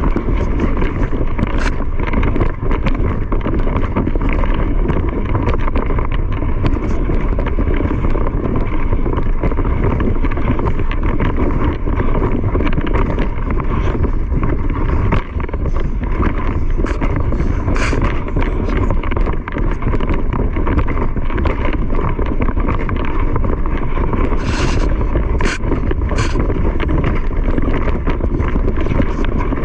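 Vehicle on the move during a timed run: steady loud running and road rumble, with wind buffeting the microphone and a few short knocks.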